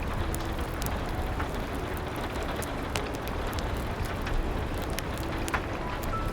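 Steady rain falling, mixed with a crackling wood fire that gives many small sharp pops, over a low rumble.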